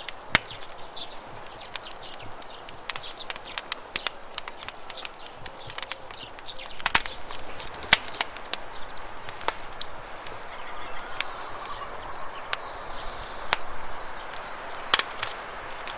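Campfire crackling, with irregular sharp pops and snaps, over the steady rush of running river water. A faint high trill comes through in the second half.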